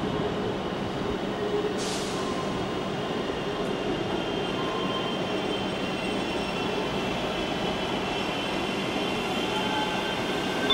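Trains running through a station: the steady rumble of a Virgin HST power car moving off, then a Central Trains multiple unit rolling past. A brief hiss comes about two seconds in, and high-pitched wheel squeal builds in the last few seconds.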